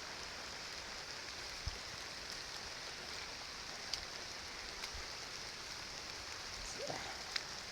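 Steady rain falling, an even hiss with a few separate sharper taps of drops.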